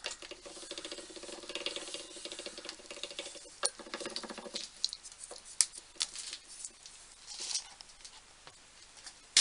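Old hand-cranked bench drill's feed gearing being turned by hand: a fast, fine clicking of gear teeth with a low hum for about four and a half seconds, then a few separate clicks and knocks of the mechanism.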